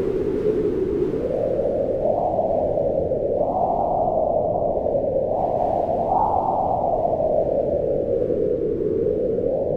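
Wind howling in a low, steady rush that swells in gusts, its pitch rising in the middle and sinking again toward the end.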